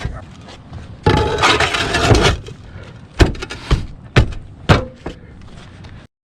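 Work on a tile roof: a rough scraping burst, then five sharp knocks about two a second.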